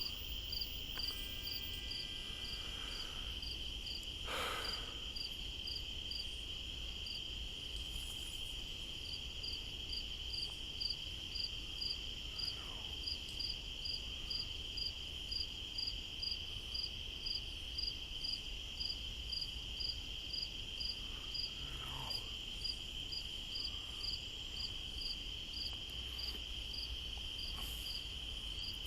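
Night insects calling: a steady high trill runs throughout, with a second insect's chirp repeating about one and a half times a second above it.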